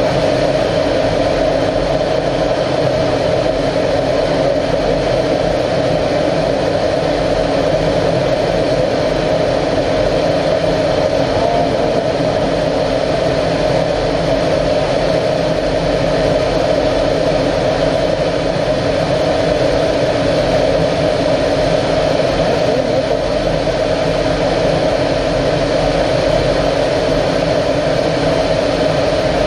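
Aero L-39 Albatros jet trainer's single turbofan engine running steadily, a loud constant drone with no changes in pitch or level.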